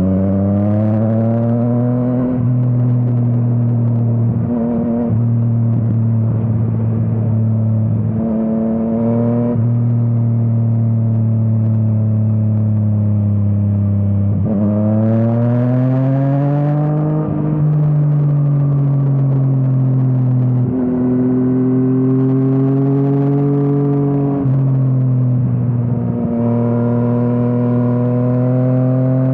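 Yamaha MT-09's inline three-cylinder engine through an Akrapovič exhaust, heard from the rider's seat. It pulls up in pitch several times with short breaks at the gear changes, then holds steady stretches at a constant throttle.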